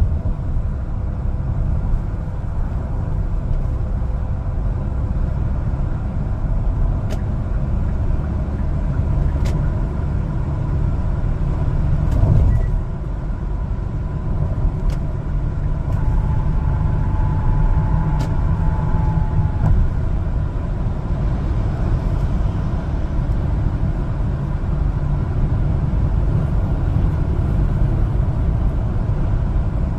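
A 1-ton LPG cargo truck driving, with a steady low engine and road rumble. There is a brief swell about twelve seconds in and a faint tone a few seconds later.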